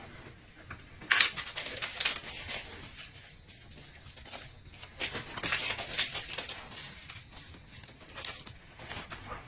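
Close-miked eating and food-handling sounds: irregular crackles, rustles and clicks, with louder crinkly stretches about a second in and again around five to six seconds in.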